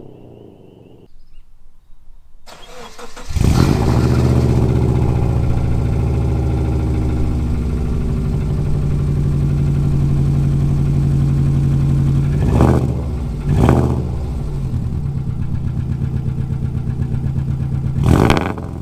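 1999 Subaru Forester's flat-four boxer engine, breathing through unequal-length headers and a muffler-delete exhaust, starting up a few seconds in and settling into a steady idle. It is blipped twice in quick succession past the middle and revved once more near the end.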